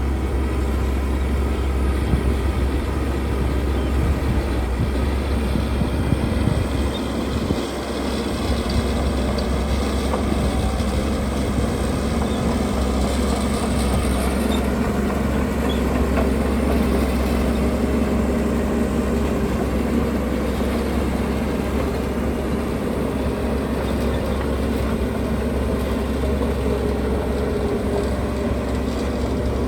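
Heavy diesel construction machinery, bulldozer or dump truck engines, running steadily with a constant low rumble.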